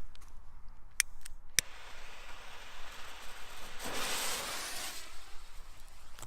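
A few sharp clicks, then a firework fuse hissing, swelling for about a second around four seconds in and then dying away.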